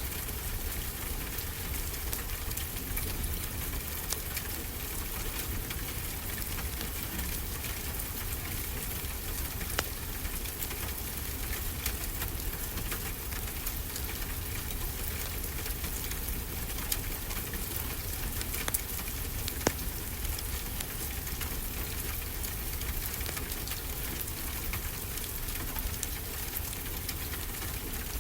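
Wood fire crackling: frequent small clicks and a few sharper pops over a steady hiss.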